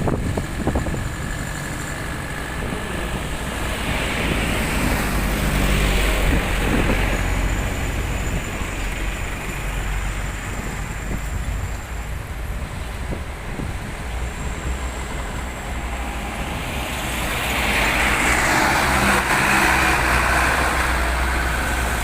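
Road traffic with heavy trucks: a steady low engine hum, as passing vehicles swell louder about four seconds in and again near the end.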